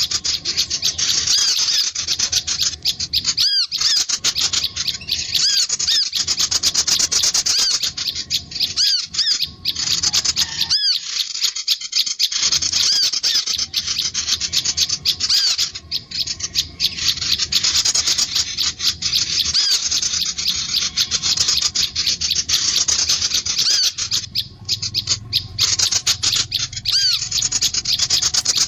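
Dense, fast, high-pitched chirping and trilling of small songbirds, with many calls overlapping almost without pause: a sunbird and prinia lure-call recording, played to draw birds in.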